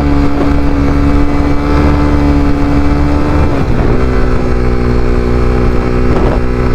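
Honda CBR300R's single-cylinder engine running under way, with wind on the microphone. About three and a half seconds in, the engine note breaks off briefly and settles again at a new steady pitch: a gear change.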